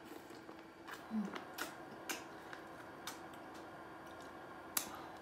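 A person chewing corn on the cob close to the microphone: wet mouth clicks every half-second to second, the sharpest near the end, with a brief hummed 'mm' about a second in.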